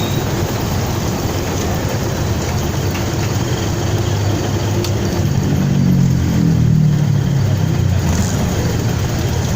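Riding noise of a motorcycle on the move: steady wind rush with the engine running underneath. The engine note swells and gets louder about halfway through, then falls back.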